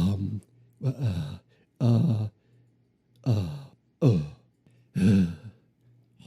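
A man's voice giving a series of short wordless sighs, six in a row at about one a second, each falling in pitch.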